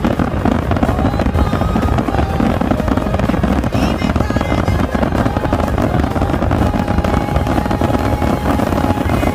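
Dense barrage of aerial fireworks shells bursting in rapid succession, a continuous mass of booms and crackles with no break.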